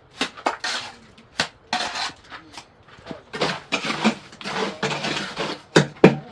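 Irregular scraping and clattering strokes in quick succession, with a sharp knock about a second and a half in and two sharp knocks near the end.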